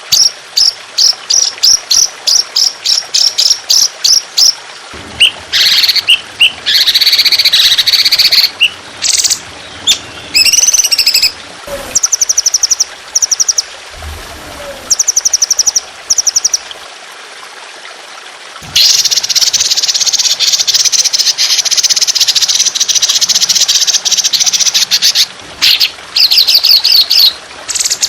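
Trotolan songbird singing a masteran sequence: a run of sharp repeated chirps, then buzzy notes and fast trills, and from about 19 to 25 seconds in one long, harsh, rattling burst, the rough long 'tembakan' that bird keepers train for. Steady trickling water runs underneath.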